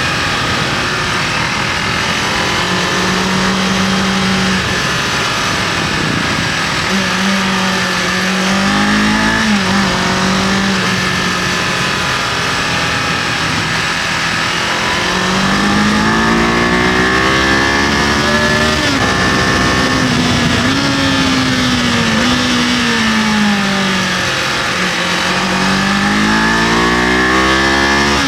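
Kawasaki KLE500's parallel-twin engine under way, its revs rising and falling with the throttle and gear changes: a long climb in the middle, a drop near the end, then another climb. A steady wind rush runs underneath.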